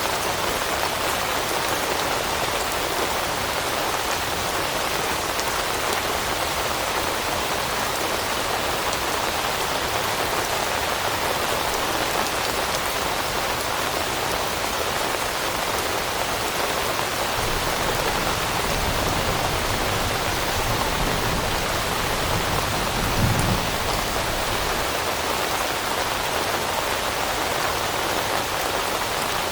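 Steady rain falling on leaves, an even unbroken patter. A brief low rumble swells and fades about three-quarters of the way through.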